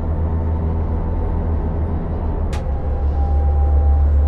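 A motor boat's engines running with a steady low drone, getting a little louder near the end. A single sharp click comes about two and a half seconds in.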